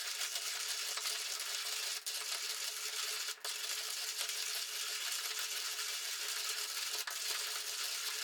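Daurunfy manual coffee grinder's burrs crushing coffee beans as the handle is cranked, on a finer grind setting. A steady, continuous grinding noise with a few very brief breaks.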